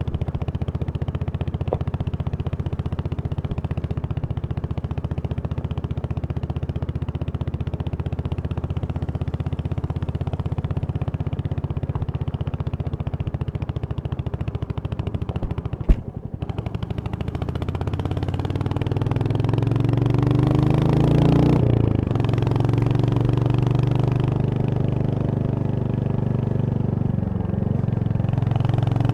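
Royal Enfield Hunter 350's single-cylinder engine running steadily at a low, even speed, with one sharp click about sixteen seconds in. It then pulls away, its pitch rising, dropping back at two gear changes and rising again after each.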